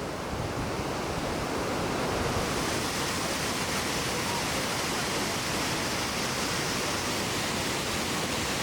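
Steady rushing water of a waterfall, a constant full-range roar that grows a little fuller about two seconds in.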